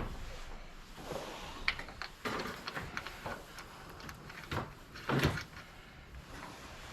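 Scattered light clicks, scrapes and knocks of bolts, nuts and hand tools being handled while a bracket is bolted on, the loudest knock about five seconds in.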